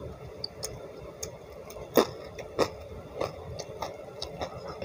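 Close-miked eating sounds: chewing with wet clicks and crunches about twice a second, the loudest pair about two seconds in.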